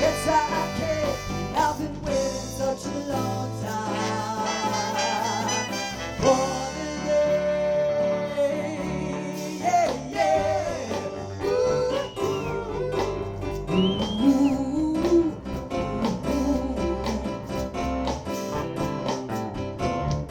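Ten-piece band playing live: a bending lead melody over sustained bass notes and a steady drum beat.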